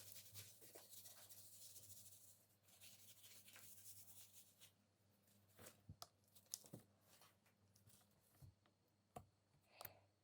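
Near silence: room tone with a faint low hum and a few scattered light ticks and rustles.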